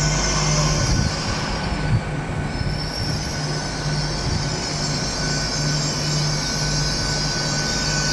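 Train moving along the track through a station, with a steady high-pitched squeal over a low pulsing hum and a hiss.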